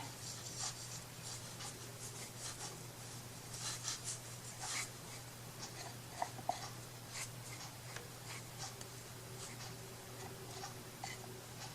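Faint, irregular rustling and scraping of paper being handled and smoothed down while it is glued onto a wooden piece, with a few small clicks, over a steady low hum.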